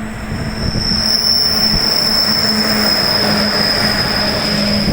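A train running past at speed, its wheels squealing in one steady high-pitched note over the rumble of the wagons on the track. It grows louder about a second in.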